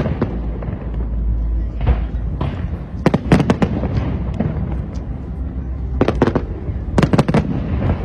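Fireworks bursting overhead in clusters of rapid cracks and bangs, about four volleys, over a steady low rumble.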